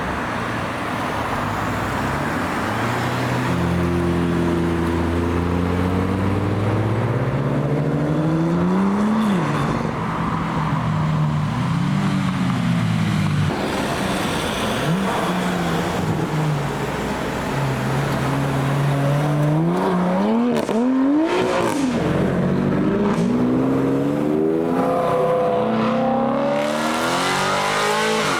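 Performance car engines accelerating and revving as cars drive off. There are several sharp throttle blips that climb and fall in pitch, and a long rising pull near the end.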